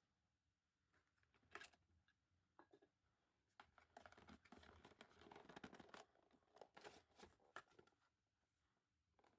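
Faint handling noises: scattered light clicks and a scratchy rustle that thickens about four to six seconds in. No grinder motor is running.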